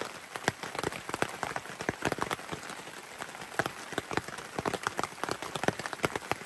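Light rain pattering, with irregular drops ticking several times a second over a soft hiss.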